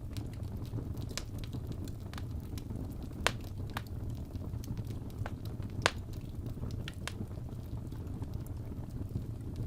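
Fire burning in a fireplace: a steady low rumble of flames with scattered sharp crackles and pops, the two loudest about three and six seconds in.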